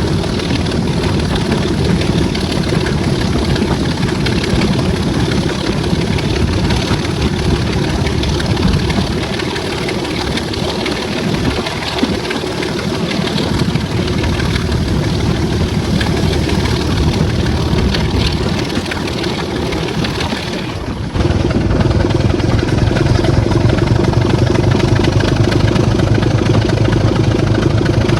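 Class 26 diesel locomotive 26043's Sulzer six-cylinder diesel engine running steadily with a deep drone. About three quarters of the way through, the sound suddenly steps up louder and fuller.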